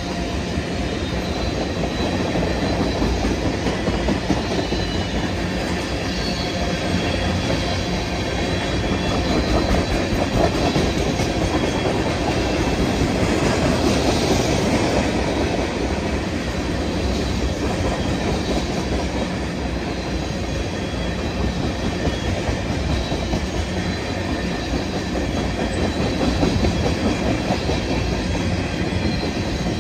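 Freight train tank cars rolling past close by: a steady rumble of steel wheels on the rails, with a faint high wheel squeal now and then.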